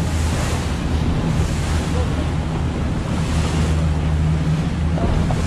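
Motorboat under way: a steady engine drone with water rushing past the hull and wind buffeting the microphone.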